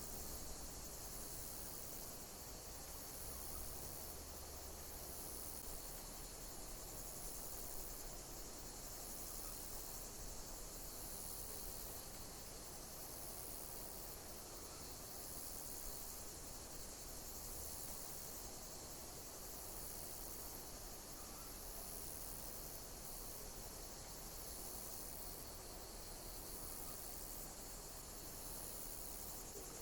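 Insects chirping in a steady, high-pitched chorus, with a pulse that repeats about every two seconds.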